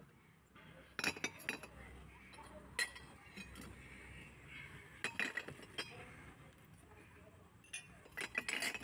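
Hard objects, glass-like, clinking as they are handled, in short clusters about a second in, near three seconds, around five seconds and again near the end.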